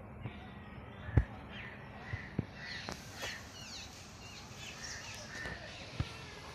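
Birds calling over and over in short, quick calls, some falling in pitch, starting about one and a half seconds in. A sharp knock about a second in is the loudest sound, with a smaller one near the end.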